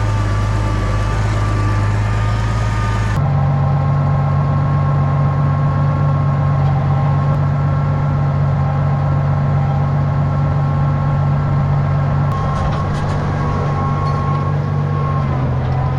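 Farm tractor engine running steadily at a constant speed, with a sudden change in its tone about three seconds in.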